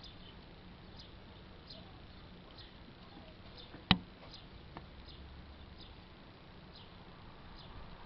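Faint bird chirps: short, high, falling notes repeating about once a second. One sharp click about halfway through is the loudest sound, followed by a weaker one.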